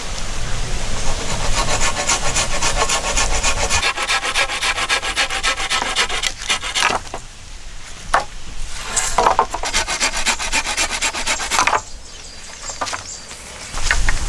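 A hand tool working wood with fast, even back-and-forth strokes for about seven seconds, then a few slower, separate strokes.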